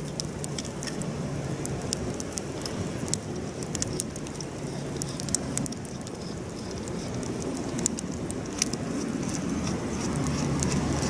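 Wood campfire crackling, with frequent irregular sharp pops and snaps over a steady low rushing sound.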